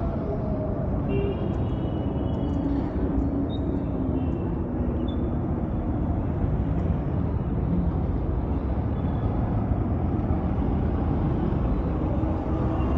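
Steady wind and road noise from riding an Ather 450X electric scooter through traffic, with a few faint high tones a second or two in.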